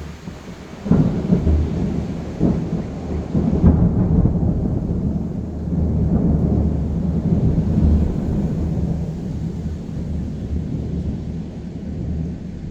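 A thunderclap bursts in about a second in, with a few sharp cracks over the next few seconds. It rolls on as a long, deep rumble that slowly dies away, over steady rain.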